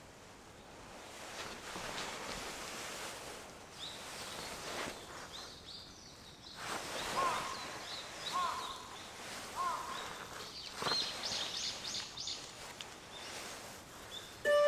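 Outdoor ambience of wind rustling through leaves, with birds calling. A short call repeats three times about a second apart, then a quick run of high chirps follows.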